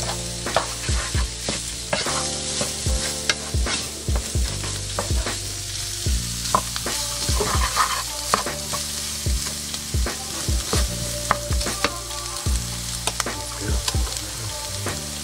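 Diced chicken and vegetables sizzling in a skillet while a spatula stirs them, scraping and knocking against the pan again and again at an uneven pace. Flour is being cooked into the mixture, without browning, to make the base for a gravy.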